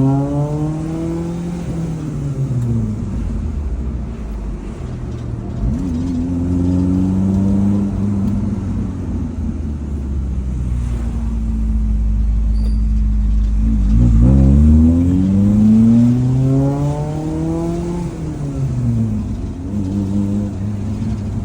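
A 1998 Maruti Suzuki Zen's engine breathing through a newly fitted header and full aftermarket exhaust system. The revs climb and fall several times, with a steadier low rumble in between.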